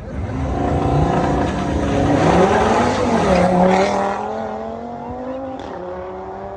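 Car engine revving hard, its pitch climbing for about two seconds with a rushing hiss at the peak, then dropping back to a steady lower note that slowly fades.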